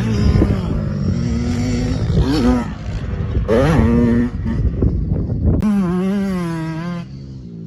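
Small dirt bike engines revving, their pitch climbing and falling with the throttle. About five and a half seconds in, the sound switches abruptly to a closer engine holding a steadier, wavering note.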